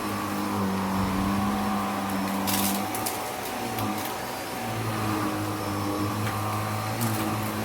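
Vacuum cleaner running, its motor hum stepping between a few pitches, with short hissing bursts of air about two and a half seconds and seven seconds in.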